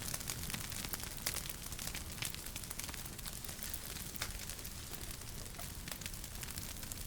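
Wood fire crackling in a fireplace: a steady hiss and low rumble with frequent sharp pops and snaps, a few louder than the rest.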